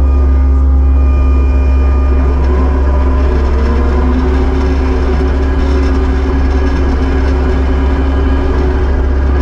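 Kubota SVL75-2 compact track loader's diesel engine running steadily under a heavy low hum, its pitch shifting up slightly a few seconds in.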